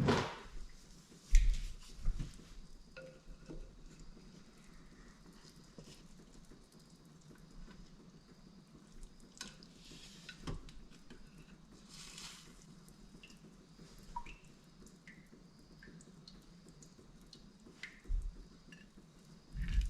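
Scattered knocks and clinks of kitchen utensils and dishes as cooked brisket is lifted out of a slow cooker, with one loud thump about a second in and a couple of soft swishes near the middle.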